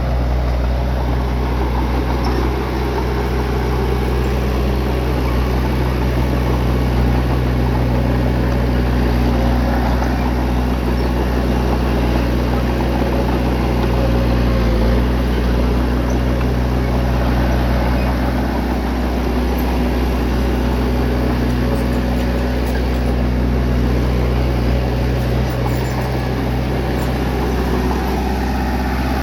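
Bulldozer's diesel engine running steadily, a low even drone with little change in pitch.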